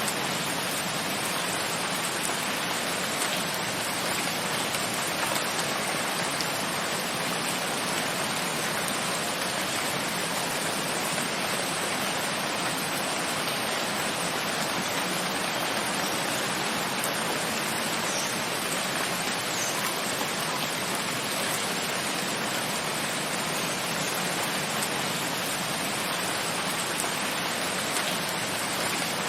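Steady rain falling, an even, unbroken hiss with a few faint drop ticks.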